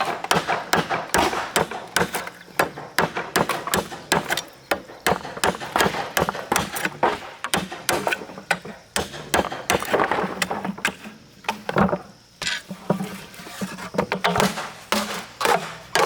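Irregular series of sharp knocks and strikes, several a second, as from hand-tool work.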